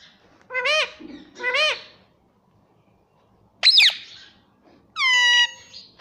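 Ringneck parrot calling. It gives two short, arched calls, then a sharp squawk, then a call that drops in pitch and holds near the end.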